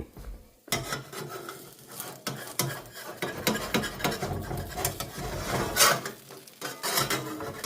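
A kitchen utensil clinking and scraping against cookware, a long run of short knocks and scrapes that starts about a second in.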